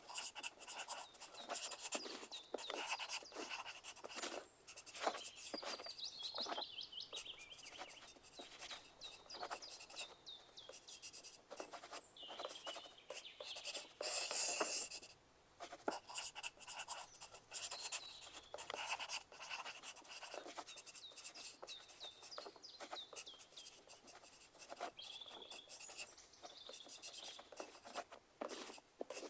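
Pencil writing on paper: quick, irregular scratching strokes with short pauses between them.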